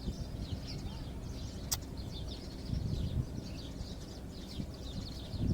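Small birds chirping and twittering over a low outdoor rumble, with one sharp click about 1.7 seconds in.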